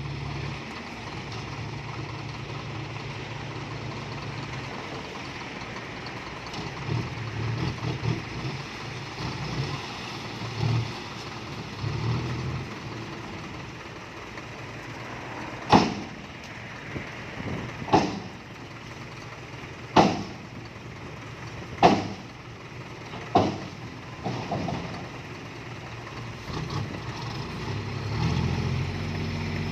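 Isuzu FXZ 360 dump truck's diesel engine running, swelling unevenly now and then. Partway through come five sharp loud bangs, about two seconds apart.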